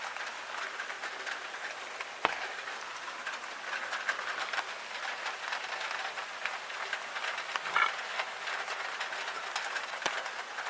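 Rain falling in a steady dense patter of drops, with a single sharp click about two seconds in.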